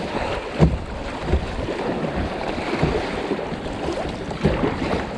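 Fast river water rushing and splashing around a kayak in rapids, the river running high, with irregular paddle splashes and wind buffeting the microphone.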